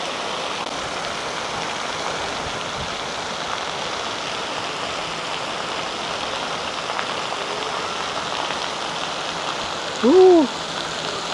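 Water spraying and splashing steadily from a children's splash-pad fountains and showers, an even hiss like heavy rain. A short cry that rises and falls in pitch cuts in about ten seconds in.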